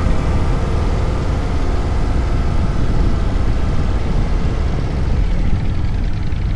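Motorcycle under way: a steady low rumble of the engine running, mixed with wind noise on the microphone.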